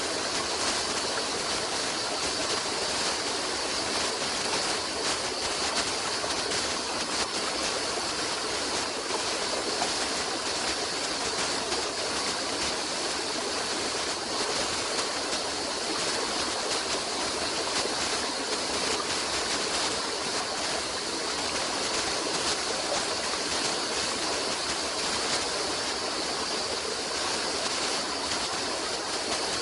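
Stream water flowing steadily over stones, an even rushing noise with no pauses.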